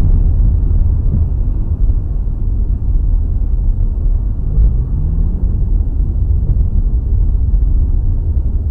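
Low rumble of a car on the road, road and engine noise as a dashcam picks it up from inside the cabin, with a faint rising engine note about five seconds in.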